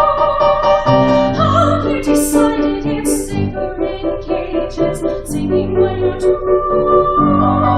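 A woman singing in a classical, operatic style with piano accompaniment, holding long notes over low piano chords.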